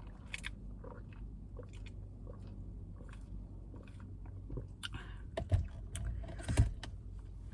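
Someone chewing and crunching a salad in a car, with scattered sharp clicks and knocks of a fork against the food container, the loudest two about five and a half and six and a half seconds in.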